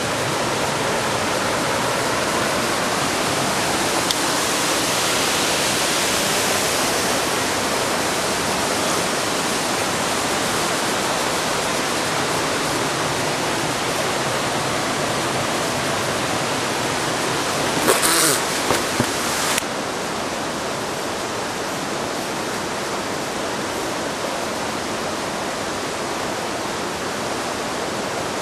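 Waterfall rushing: a steady, full roar of falling water. About two-thirds of the way through there is a brief, louder burst of noise lasting a second or two, after which the rush continues slightly quieter.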